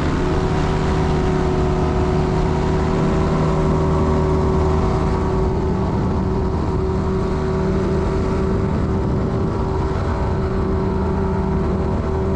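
Light aircraft's piston engine and propeller running steadily at high power, an even droning tone that holds its pitch.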